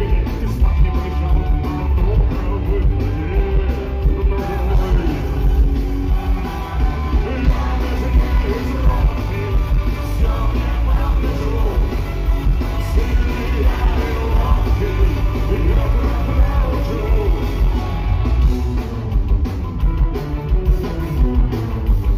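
Punk rock band playing live: electric guitars, bass and drum kit, with singing.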